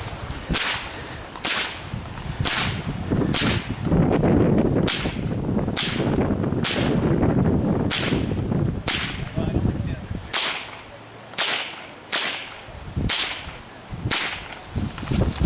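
Rapid .22 LR rifle fire: a string of sharp, light cracks at about one shot a second, from a shooter working a timed run-and-gun stage.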